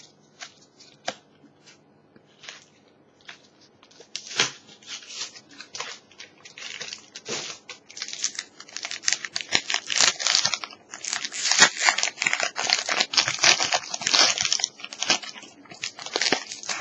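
Pokémon booster pack's foil wrapper crinkling as it is handled and torn open: a few sparse crackles at first, then dense, continuous crinkling from about four seconds in, loudest in the second half.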